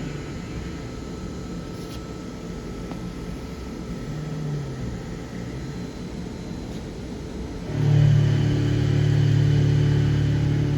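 DMG MORI M1 CNC milling machine cutting steel. A steady low drone drops away at the start, leaving a rough grinding machine noise, then comes back loudly about eight seconds in.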